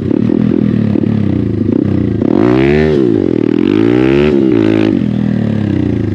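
Hero Xpulse 200's single-cylinder engine running through an MW Performance aftermarket exhaust, revving up and back down twice, about two and four seconds in.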